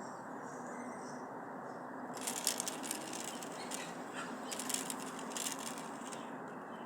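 Two spells of crackling, rattling clicks over a steady background hiss.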